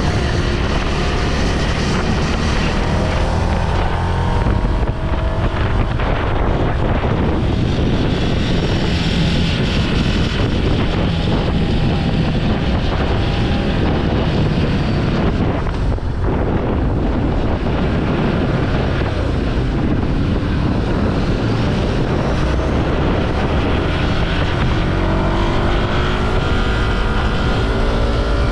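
Ducati Scrambler Sixty2's 399 cc air-cooled L-twin running while riding, its pitch easing down in the first few seconds and climbing again near the end as the throttle changes, with wind rushing over the microphone.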